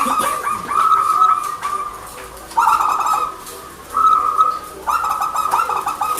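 Zebra dove (perkutut) cooing: a string of about five rapid, stuttering coo phrases, each pitched steadily, with short pauses between them.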